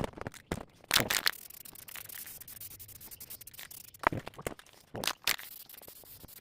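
Rough scrubbing strokes over the wood of a freshly chainsaw-carved piece, about five short rubs with pauses between them.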